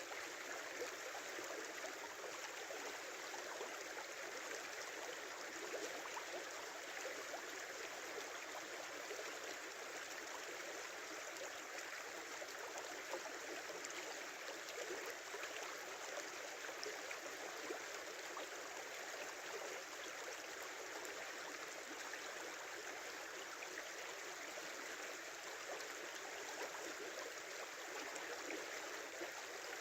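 Small stream flowing and gurgling steadily over stones through open water between snow and ice.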